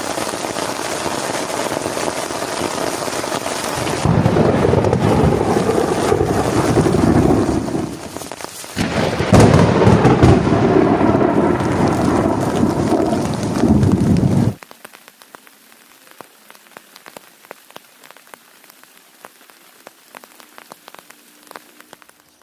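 Heavy rain with loud thunder rumbling twice, first about 4 s in and again from about 9 s. It cuts off abruptly at about 14 s to a much quieter patter of scattered raindrops.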